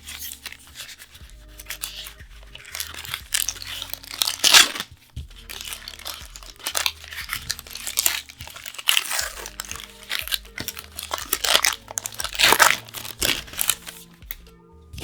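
Card-product packaging being torn open and crinkled by hand, in a string of irregular crackling rips with a few louder tears about four and a half seconds in and near the end.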